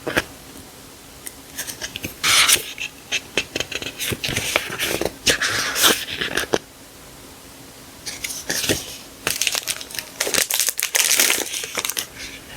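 Sticker packaging being handled and unwrapped: crinkling and rustling in short bursts, with small clicks and taps between them.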